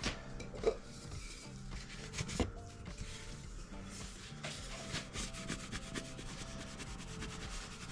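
Hand-pumped flocker puffing flock fibres onto wet flocking adhesive with a rubbing sound, turning into quick repeated strokes from about halfway.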